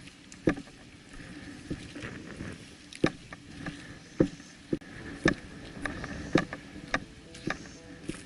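Footsteps crunching and rustling through dry leaves and undergrowth, uneven steps about one or two a second.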